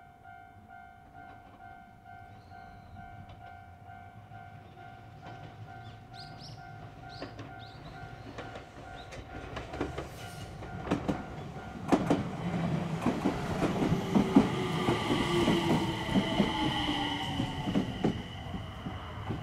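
Level crossing warning bell ringing in a steady repeating pattern. An Enshu Railway electric train comes up and passes over the crossing, getting louder from about halfway, with wheels clicking over the rail joints and a slowly falling tone as it goes by.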